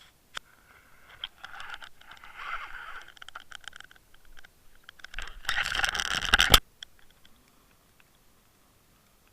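Irregular scratching and scraping, with a louder rough rustle lasting about a second and a half past the middle that cuts off suddenly.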